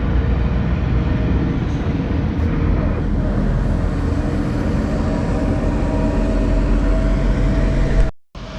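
Truck driving on the road: a steady low engine and road rumble with a faint hum over it.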